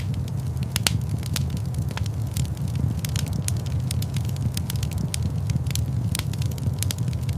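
Fire crackling in a fireplace: irregular sharp pops and snaps, several a second, over a steady low rumble of the burning.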